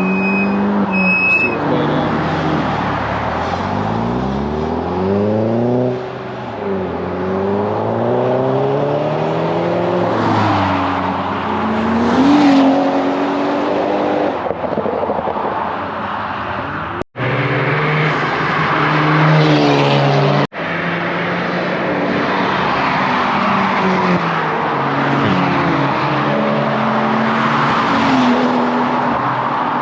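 Car engines revving and accelerating past one after another, their pitch rising and falling again and again with loud exhausts. The sound breaks off abruptly twice past the middle.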